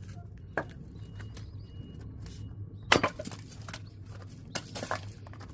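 Axe blows striking firewood: a sharp knock about half a second in, a loud strike about three seconds in, and two lighter knocks near the end, over a steady low hum.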